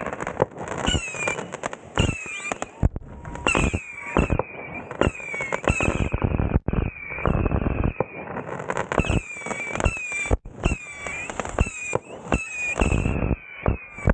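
Consumer fireworks going off in rapid succession: a dense run of sharp cracks and bangs over a steady hiss, with short whistling glides in pitch threaded through.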